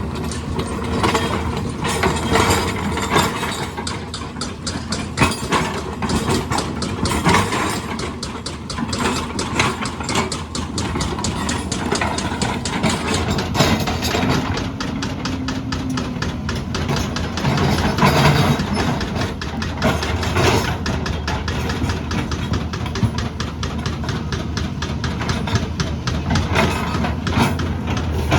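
Heavy construction machine's engine running, with a rapid, even clatter.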